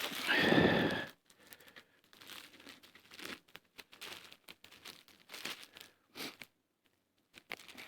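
Small, scattered crackles and crinkles from birch bark and thin twigs at a small campfire, with short silent gaps between them. A louder, brief sound comes in the first second.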